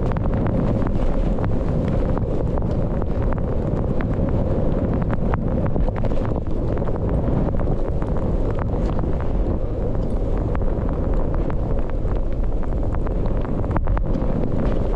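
Wind rushing over an action camera's microphone during a powder ski run: a loud, steady low rumble with many short, sharp crackles running through it.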